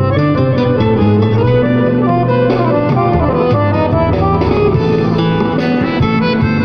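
Instrumental music: a melody of quickly changing notes on the accordion over a held bass line, with a plucked-string accompaniment.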